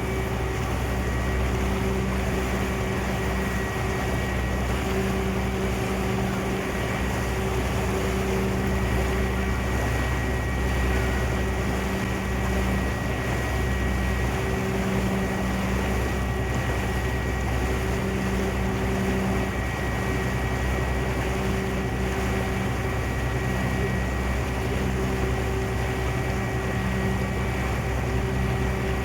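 Sternwheeler ferry's engine and machinery running steadily, heard on board: a constant low drone with a steady hum and rumble that does not change.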